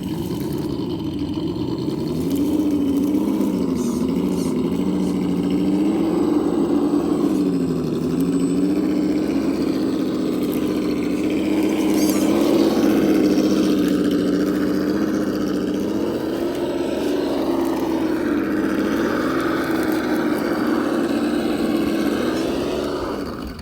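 An RC crawler's engine sound simulator playing an engine note that rises and falls in pitch again and again as the throttle is worked.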